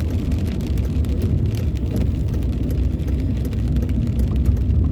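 Steady low rumble of a car driving on a wet road, heard from inside the cabin, with many small irregular ticks of rain hitting the car.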